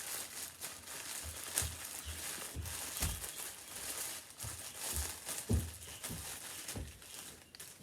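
Packaging crinkling and rustling while clothes are handled, with a few soft low thumps.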